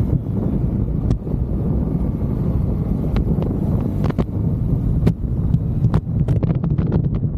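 Motorcycle engine running steadily under way, mixed with heavy wind rumble on the microphone. Scattered sharp clicks or ticks come through, more of them near the end.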